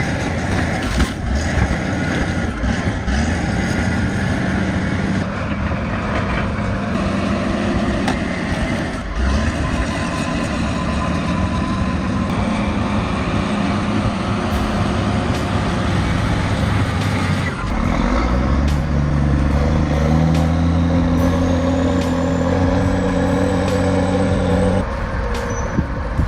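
Heavy diesel truck engine running under load. About two-thirds of the way in a deeper engine note comes in and slowly climbs in pitch as it works harder, then drops away near the end.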